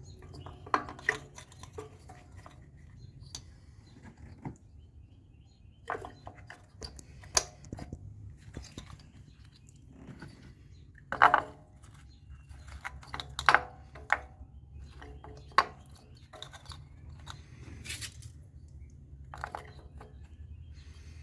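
Metal hand tools and small engine parts clinking and knocking at irregular intervals during spark plug and ignition coil work, with about a dozen sharp clanks, the loudest about eleven and thirteen seconds in, over a steady low hum.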